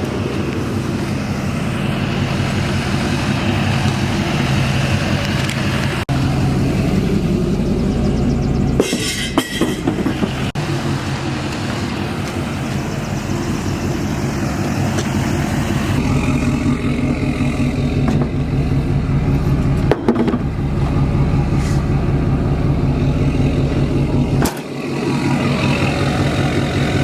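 LML Duramax diesel engine of a 2011 GMC Sierra 2500HD running loud through a 5-inch straight pipe, with a low, pulsing exhaust note. It comes in several clips whose sound changes abruptly about 9, 16, 20 and 24 seconds in.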